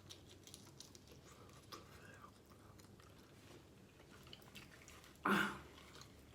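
Close-miked chewing and soft mouth sounds of someone eating lobster tail, with faint scattered clicks and one louder mouth sound about five seconds in.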